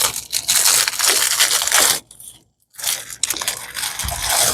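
Plastic packaging of a diamond painting kit crinkling and rustling as it is handled, in two stretches with a short pause about two seconds in.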